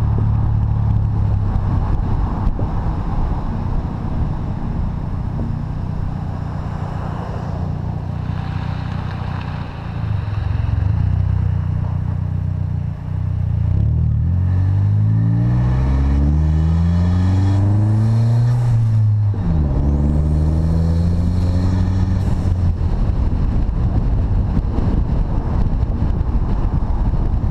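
2012 Chevrolet Sonic's turbocharged 1.4-litre four-cylinder, with aftermarket intake and exhaust, driving and accelerating. About halfway through, the engine note climbs steadily, drops sharply at a gear change, climbs again in the next gear, then settles into a steady cruise.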